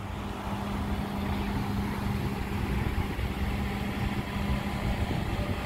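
2017 Toyota Corolla LE idling, a steady hum over a low rumble, growing louder over the first couple of seconds as the front of the car comes nearer.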